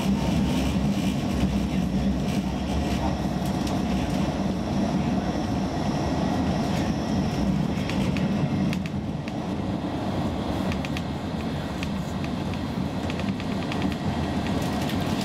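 Cabin sound of a Roslagsbanan X10p electric multiple unit running at speed: a steady low rumble of wheels and running gear on the track, with scattered light clicks and rattles. The deepest part of the rumble eases a little just past halfway.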